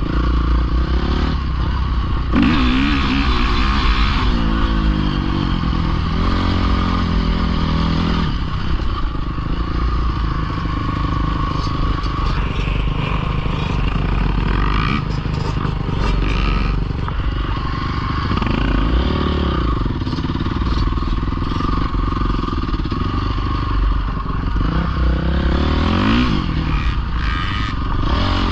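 Small dirt bike (pit bike) engine running under riding, revving up and falling back several times, with a steady rush of noise and some clatter underneath.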